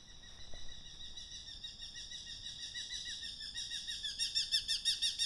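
Dawn song of an unidentified songbird: a long, continuous high trill that grows louder into a fast run of evenly repeated downward-slurred notes, about eight a second, near the end.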